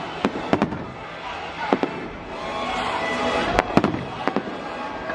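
Fireworks bursting in a quick, irregular run of sharp bangs, about a dozen of them, with the loudest cluster a little past halfway.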